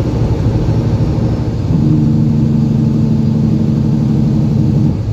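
Semi truck's diesel engine droning steadily in the cab; about two seconds in the hum grows louder and stays level, then dips briefly near the end.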